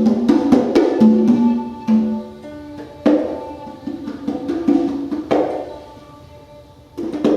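Free-improvised acoustic music: hand-drum strikes, likely congas, mixed with short pitched notes. It goes sparse and quieter for a moment near the end before a sharp hit.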